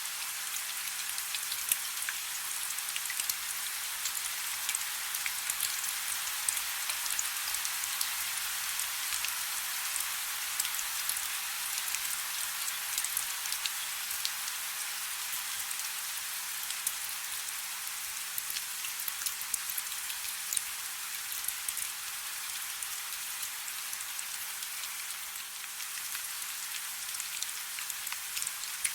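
Soft steady rain: a continuous hiss of rainfall with many small, crisp drop ticks, and a faint low hum underneath.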